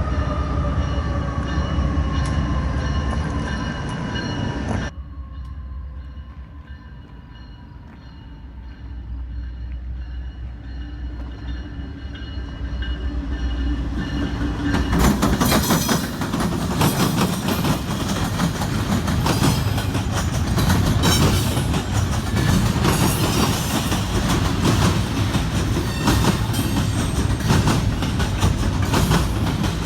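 Freight train running past, with a steady rumble and fast clatter of wheels over the rails, loud from about fifteen seconds in. At the start, tones sliding down in pitch fade away with a receding train, then cut off abruptly.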